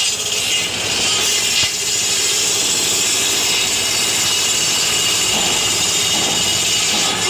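Tractor-driven wood saw (aara machine) running with a steady, continuous mechanical noise from the engine and the spinning saw.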